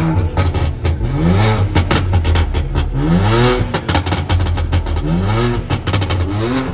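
Car engine being revved repeatedly, the pitch climbing and dropping back about every second and a half, with sharp crackles throughout.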